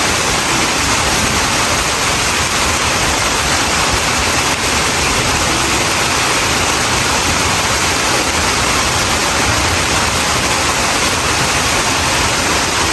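Heavy rain falling steadily: a dense, even hiss with no pauses or single drops standing out.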